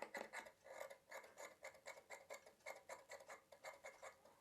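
Tailor's scissors snipping through silk and lining fabric in a quick, faint series of cuts, about three a second, trimming off the excess seam allowance after stitching.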